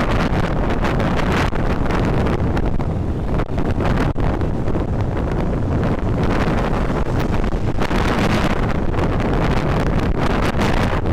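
Wind buffeting the microphone of a moving motorcycle, a loud steady rush with the ride's road and engine noise underneath.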